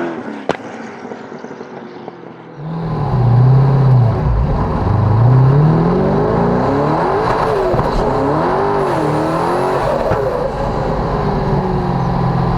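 Twin-turbocharged LS7 V8 of the Mazzanti Evantra Millecavalli accelerating hard. Its pitch climbs and drops several times, like upshifts. For the first two and a half seconds it is quieter, with one sharp click about half a second in.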